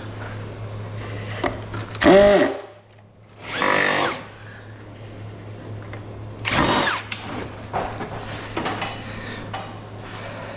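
Handheld power drill run in three short trigger bursts, its motor winding up and back down each time, over a steady low hum.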